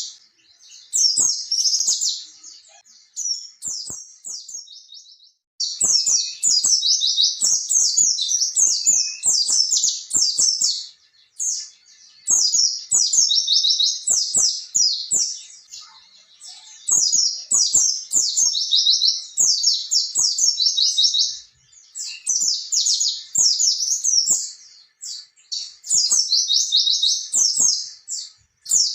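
White-eye (pleci) singing long, fast, high-pitched twittering phrases in the rolling 'ngalas ngerol' style, in bursts of several seconds with short pauses between them. There is a softer, broken stretch a few seconds in.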